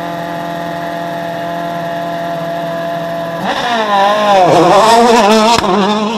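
Rally car engine held at steady revs, then louder with revs rising and falling quickly about halfway through as the car works the throttle, with a sharp crack shortly before the end.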